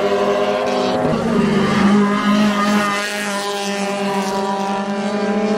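Race car engine running hard at high revs, holding a steady pitch with a small step up about a second in and a slow climb near the end.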